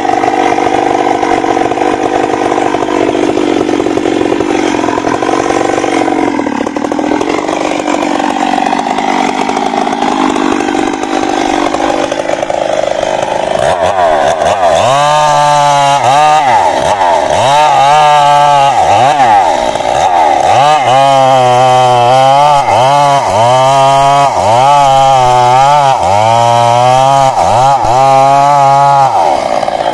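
Stihl MS 382 two-stroke chainsaw running at high speed in a cut. About halfway through, its engine speed starts dropping and picking back up roughly once a second, over and over.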